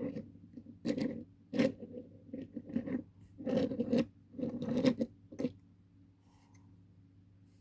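Small die-cast toy tractors being handled and turned over, a series of short scratchy scrapes and rubs that stop about two-thirds of the way in.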